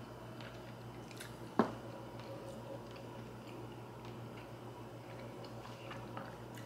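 Quiet mouth sounds of a person chewing a bite of baked trout, over a steady low hum, with one sharp click about a second and a half in.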